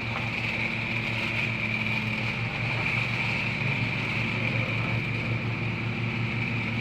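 Genie screw-drive garage door opener running steadily as it raises the door: a low motor hum with a fast even pulsing and a steady whirring whine above it.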